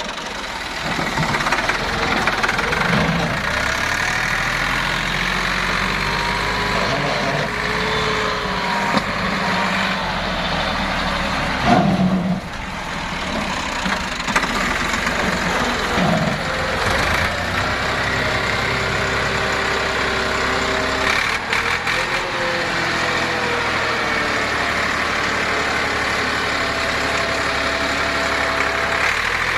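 Tractor engine running, its revs rising and falling several times, with a single knock about twelve seconds in.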